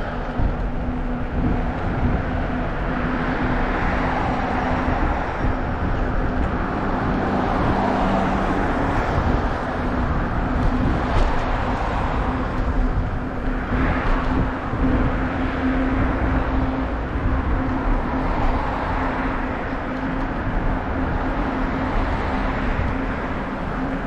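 Steady road and wind rumble from a moving bicycle, with a constant low hum, and vehicles swelling past several times, every few seconds.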